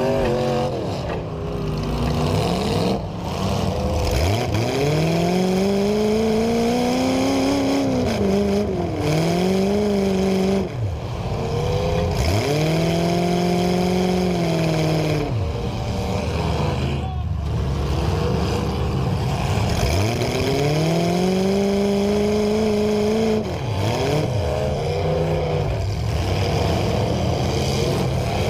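Demolition-derby car engine revving hard over and over, its pitch climbing, holding high for a few seconds, then falling away, roughly every five to eight seconds.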